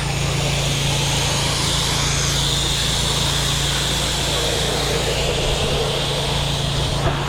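Pressure-washer engine running steadily under the even hiss of a water spray as a house's eaves and vinyl siding are soaked.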